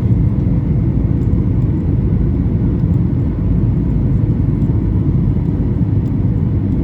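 Cabin noise inside a Boeing 737-800 with CFM56-7B engines: a steady, loud low rumble of the engines and airflow, with a faint steady hum above it.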